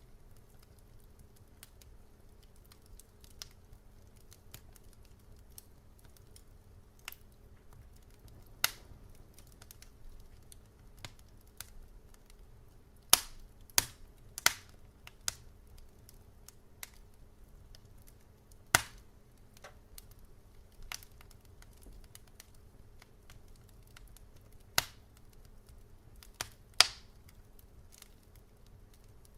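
Wood fire crackling: irregular sharp pops and snaps over a low steady hiss, with a cluster of louder pops about halfway through and a few more near the end.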